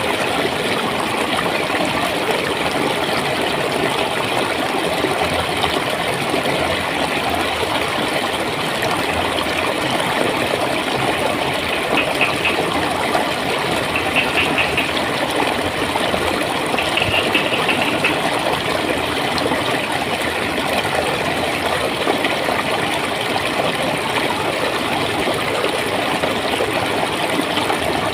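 Running water flowing and gurgling steadily. Near the middle, a short, high, rapid trill is heard three times over the water.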